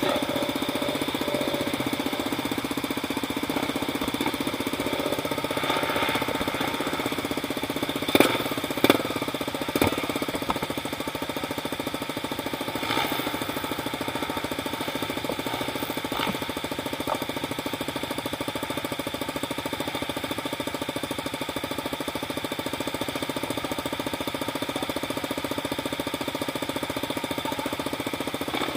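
A vehicle engine running steadily, with a few sharp knocks about eight to ten seconds in.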